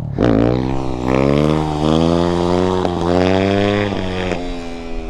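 The engine of a Yamaha YZ250F dirt bike running just after being push-started from a stall, revved three times, its pitch climbing on each pull before it settles lower near the end.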